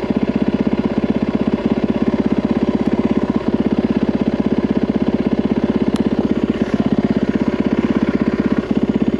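Yamaha WR450F single-cylinder four-stroke dirt bike engine running steadily, with an even, rapid train of firing pulses.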